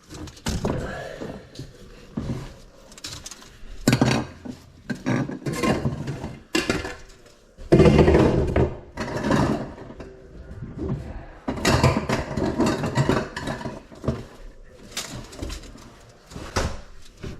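Irregular knocking and clattering of pipe parts and tools being handled during drain-line repair work, with scraping in between.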